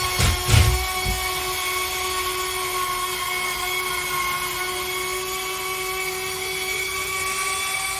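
High-speed power tool whining steadily, with a few low knocks in the first second.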